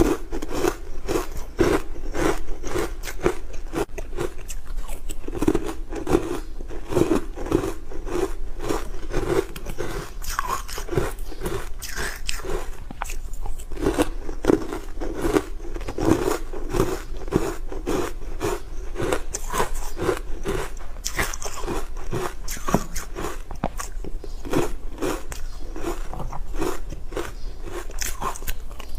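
Hard frozen matcha ice being bitten and chewed close to the microphone: dense, crackling crunches in quick succession, over and over.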